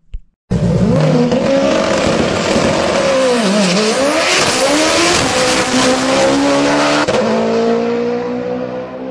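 Car engine revving hard, cutting in abruptly: its pitch drops sharply and climbs back a few seconds in, then rises steadily as it accelerates, over a loud hiss.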